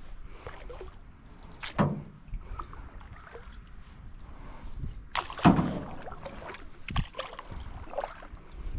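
Canoe being paddled: splashing and sloshing water from the paddle strokes, with a few sharp knocks. The loudest knock comes about five and a half seconds in.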